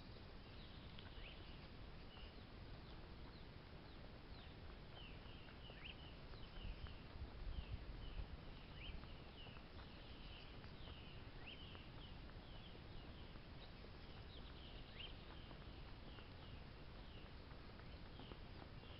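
Faint chirping of birds: short, high calls repeated every half second or so. Under them runs a low rumble that grows louder about seven seconds in.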